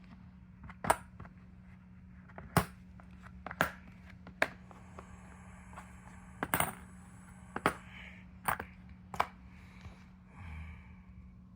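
Coins being flipped over and set back down on a hard surface: a string of sharp, separate clicks, mostly a second or so apart, over a steady low hum.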